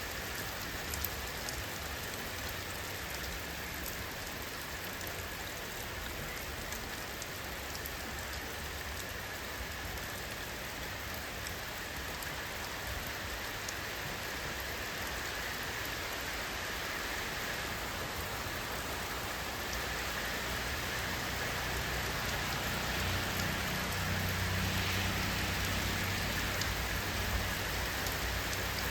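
Steady rainfall, an even hiss with individual drops ticking here and there; a low rumble grows louder in the last third.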